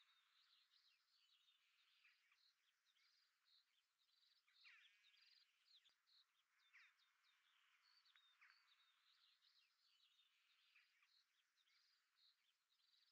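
Faint birdsong: several small birds chirping and trilling in short repeated phrases.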